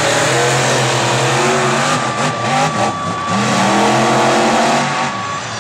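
Monster truck engines revving hard, their pitch climbing and dropping back several times.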